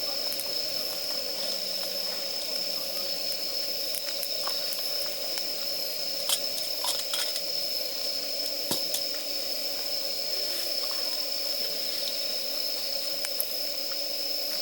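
Damp firewood burning with a steady hiss of escaping steam, broken by scattered sharp crackles and pops.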